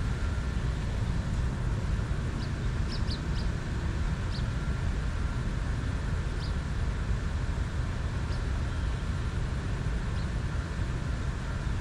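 A steady low rumble runs throughout, with short high bird chirps breaking through a few times, several close together about three seconds in and single ones later.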